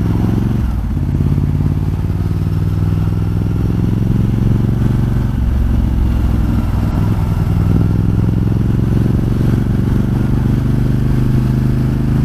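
Ducati Multistrada 1200 S's L-twin engine running steadily while riding in traffic, its note shifting a little about a second in and again around five seconds in.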